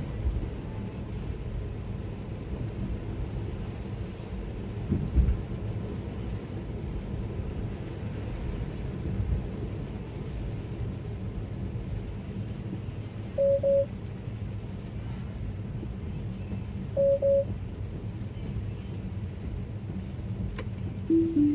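Low, steady road rumble inside a moving Tesla's cabin, with a couple of knocks. Over it, the car's alert chime sounds twice as a pair of short high beeps, then a falling two-note chime near the end.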